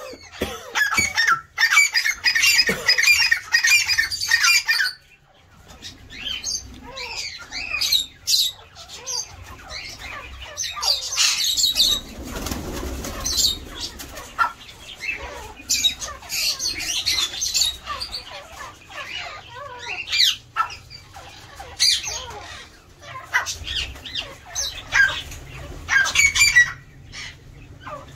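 A colony of aviary birds chirping and squawking, with wings flapping now and then. The chattering is dense for the first few seconds, then after a short lull the calls come scattered.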